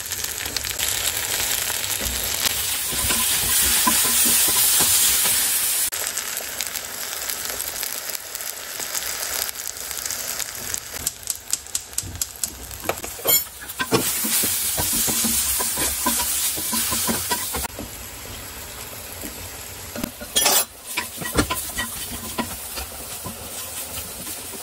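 Chopped onions, green chillies and garlic sizzling in hot oil in a pan. A wooden spatula stirs them, scraping and knocking against the pan several times.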